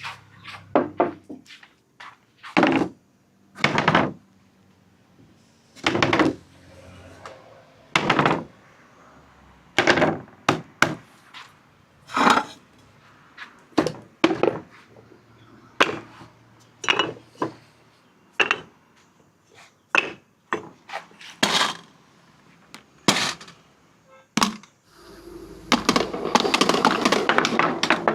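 Marbles on a marble-run track: single sharp clacks and knocks every second or two as they drop and strike the track. About 25 seconds in, a dense continuous rattling starts, like many marbles rolling together.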